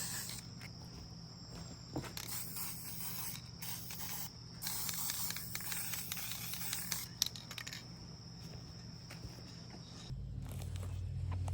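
Bursts of hissing lasting a second or two, with scattered small clicks and scrapes, over a steady electrical hum; the hum changes about ten seconds in.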